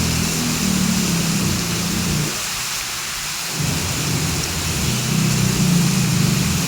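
Heavy rain falling steadily, with a low rumble underneath that comes in two stretches: the first fades out about two seconds in, and the second swells back a little past the middle.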